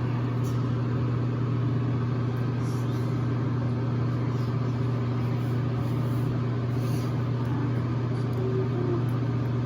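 Steady low motor hum, unchanging in pitch and level.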